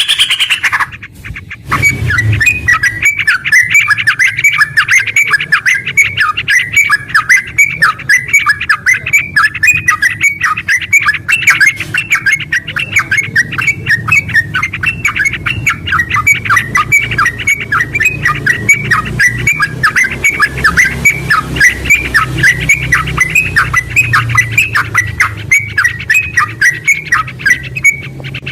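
Yellow-vented bulbul (trucukan) singing a long, unbroken run of rapid, short chattering notes, the fast "ngerpel" song style, after a brief pause about a second in.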